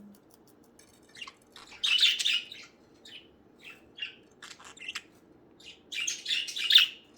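Budgerigars chirping and chattering in short scratchy bursts: a dense flurry about two seconds in, scattered single chirps, then another loud flurry near the end.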